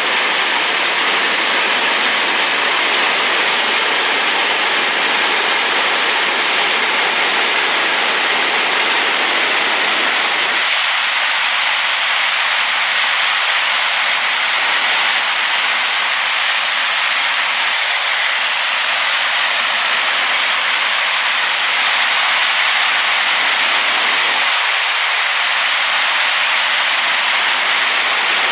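Waterfall running high and silt-laden after rain: a loud, steady rush of falling water, like white noise.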